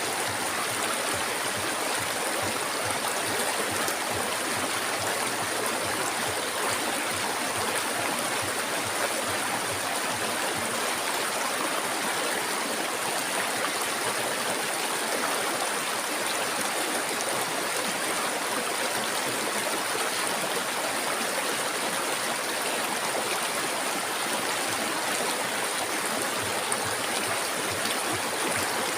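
River water flowing over rocks, a steady rushing and gurgling that keeps an even level throughout.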